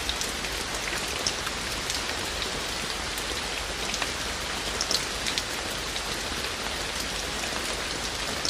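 Steady rain falling, an even hiss with scattered individual raindrops ticking on surfaces close by.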